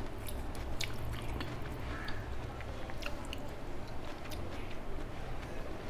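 A person chewing a mouthful of rice and fish curry, close to the microphone, with scattered wet mouth clicks.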